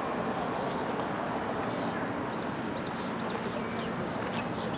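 Steady outdoor background noise, with a bird giving a quick series of short, high chirps from about two seconds in.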